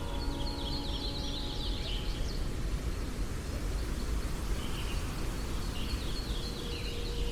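Small songbirds chirping in quick repeated phrases, in two spells with a pause of about two seconds between them, over a steady low outdoor rumble.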